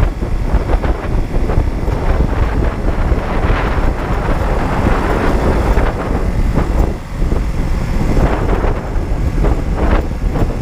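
Honda CB125T's 125 cc twin-cylinder engine running as the motorcycle rides along, with wind buffeting the microphone. The level dips briefly about seven seconds in.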